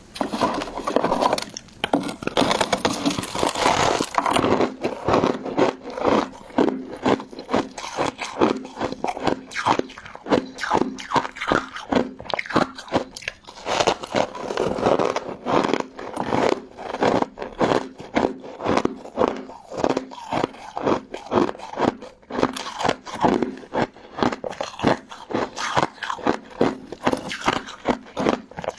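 Close-miked crunching of crystal ice and jelly candy in the mouth: a steady, quick run of crisp crunches, about three a second.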